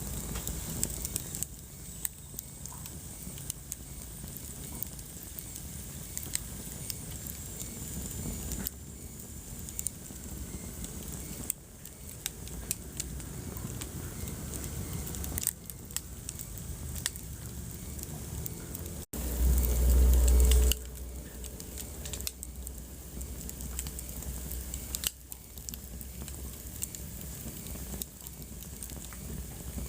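Wood fire crackling in a fireplace: many sharp snaps and pops over a soft steady hiss. About two-thirds of the way in, the sound drops out for an instant and a loud low rumble, about a second and a half long, rises above the crackle.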